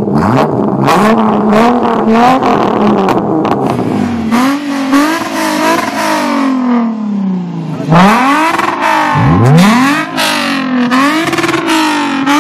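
Holden Commodore VT's Ecotec V6 revving through a 2.5-inch straight-pipe exhaust. Partway through, it gives way to a Lexus IS250's V6 being revved repeatedly, its pitch climbing and falling back with each blip.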